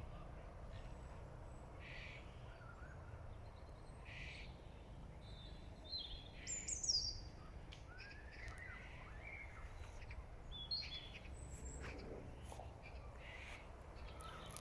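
Several songbirds chirping and calling on and off, with one louder call sweeping down in pitch about seven seconds in, over a faint steady low rumble.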